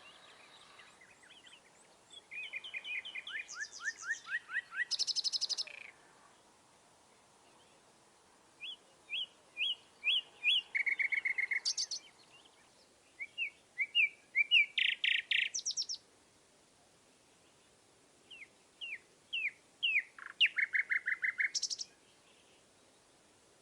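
A songbird singing four songs a few seconds apart. Each song is a run of quick, sliding whistled notes that ends in a fast trill.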